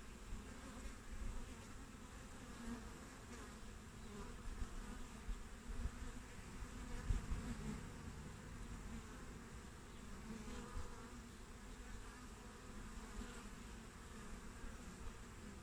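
Western honeybees buzzing at the hive entrance, a steady hum with individual bees flying close past and swelling louder for a moment, the loudest pass about seven seconds in.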